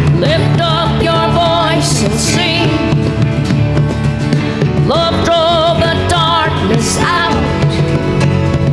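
Worship band music, with long held, wavering sung notes over the band and no clear words.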